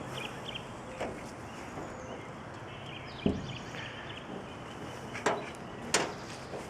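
A few short, sharp knocks and clicks scattered over steady outdoor background noise, the loudest about three seconds in and again about six seconds in.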